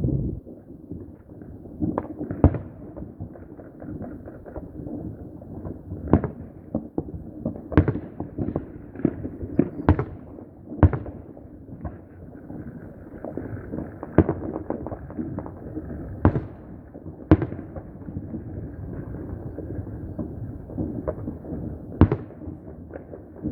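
New Year's fireworks and firecrackers going off, a continuous crackle and rumble of many blasts with about a dozen louder, sharper bangs at irregular intervals.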